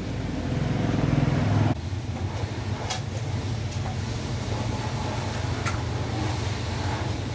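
A steady low mechanical hum that swells and then drops off suddenly about a second and a half in, with two sharp clicks later on.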